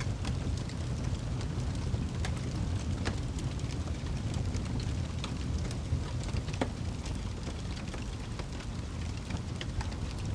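Fire burning in a fireplace: a steady low rumble of the flames with frequent, irregular crackles and pops.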